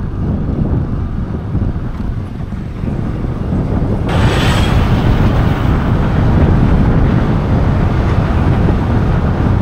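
Motorcycle riding, its engine rumbling under wind noise buffeting the microphone; about four seconds in the rush of wind and hiss rises sharply and stays louder.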